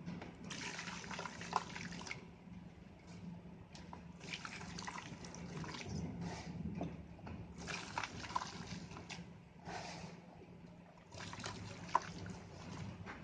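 Moulded red sand shapes being crushed and crumbling, in about five separate bursts of soft crunching and pouring grains with short pauses between them and a few sharp cracks.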